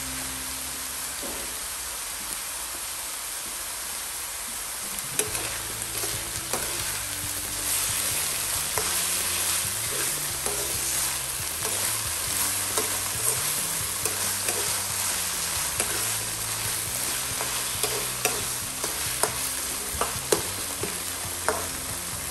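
Flaked milkfish and tomato sauce sizzling in a nonstick wok. From about five seconds in, a metal spoon stirs and scrapes the mixture, with repeated sharp clinks against the pan.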